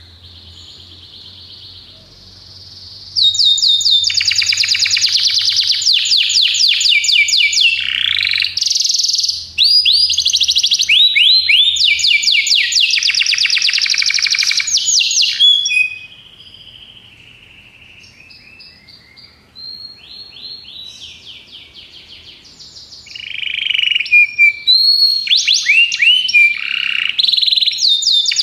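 A domestic canary singing a long song of rapid trills, each made of quick repeated high notes, changing from one trill to the next; the song is loudest in two long stretches, with softer, slower phrases in between.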